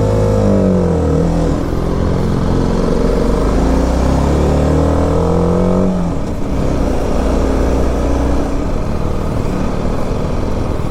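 BMW G 310 RR's single-cylinder engine pulling under throttle, its pitch rising and falling as the revs change. About six seconds in the revs drop and it settles to a lower, steadier run.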